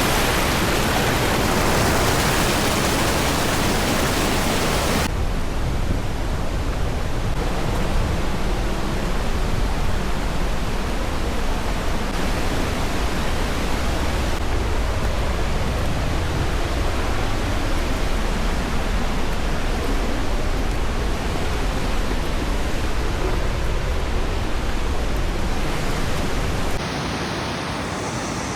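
Steady rushing noise of a large waterfall's falling water, without a break. The hiss turns duller suddenly about five seconds in, and the sound drops a little near the end.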